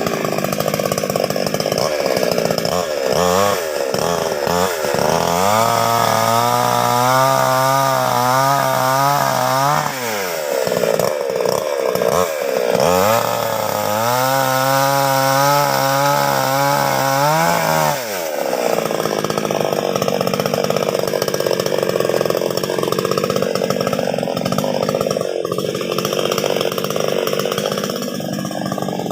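A chainsaw cutting through a fallen branch. It is revved up twice for about four or five seconds each, its pitch wavering as the chain bites, and runs lower and rougher between and after the cuts.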